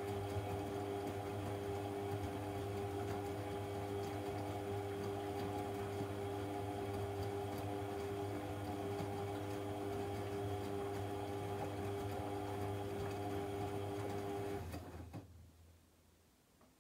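AEG Lavamat 1400 washing machine running with a steady motor hum. The hum stops about fifteen seconds in, with a low drone dying away over the next second or so, leaving near silence.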